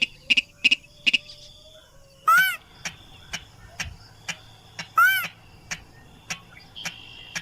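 Recorded rail calls played as a hunting lure: a loud arched, nasal call about every three seconds, twice in this stretch, with rapid sharp ticking notes between.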